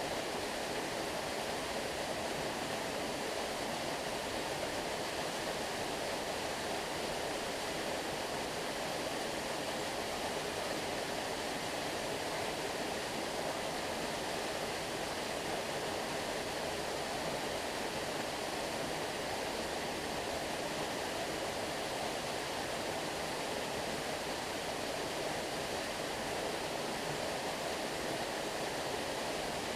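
Stream water running steadily, an even, unbroken flowing sound with no separate splashes or other events.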